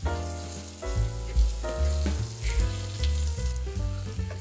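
Chicken pieces sizzling in hot coconut oil with fried onions and spices in the pan. Background music with a bass line and changing chords plays over it.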